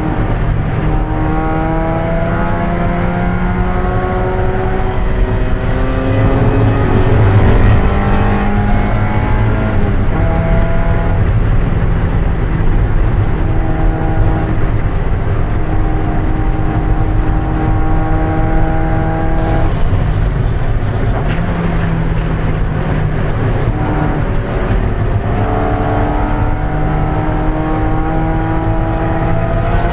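1995 Mazda Miata's 1.8-litre four-cylinder engine at race pace, rising in pitch as it pulls through the revs. It holds a steady pitch for several seconds in the middle, drops off briefly about twenty seconds in, then climbs again near the end.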